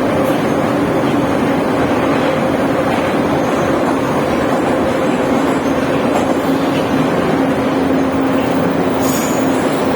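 Tashkent metro train running steadily: a loud, even rumble with a steady motor hum.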